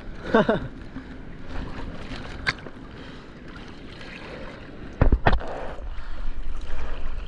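Water splashing and sloshing around a GoPro at the surface while paddling out in surf, with two sharp knocks about five seconds in and the water noise growing louder toward the end.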